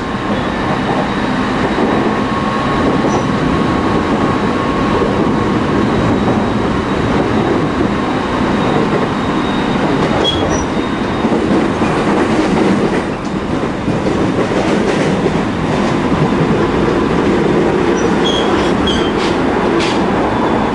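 Running noise heard inside a JR East 209 series 500-subseries electric commuter car under way: a steady rumble of wheels on rail with a faint steady high tone over it. A few sharp clicks and short squeaks come near the end.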